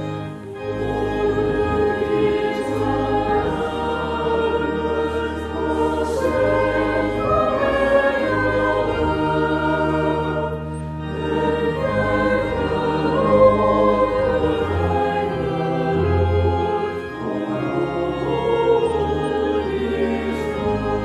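Choir singing a slow piece over sustained organ chords, with short breaths between phrases, one about half a second in and one about eleven seconds in.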